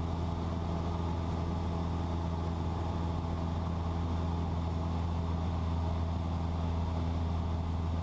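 Cessna 172's piston engine and propeller running steadily in cruise, heard inside the cabin as a constant, even drone with no change in pitch.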